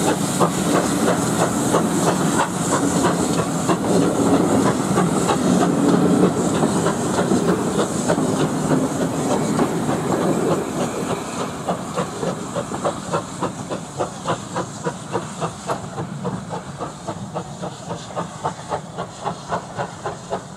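Coaches of a steam-hauled passenger train rolling past on the rails, their wheels clicking rhythmically over the rail joints. The sound fades through the second half as the train draws away.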